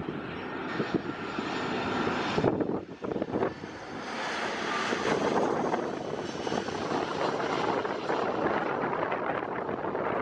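Jet engines of an arriving Airbus A320 airliner: a steady jet noise that builds, dips briefly around three seconds in, then is loudest from about four seconds on.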